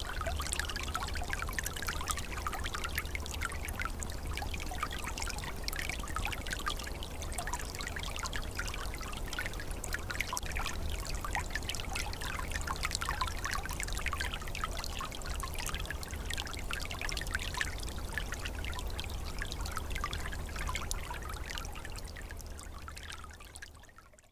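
Small forest stream trickling and gurgling, a steady flow of water with a low rumble underneath. It fades out near the end.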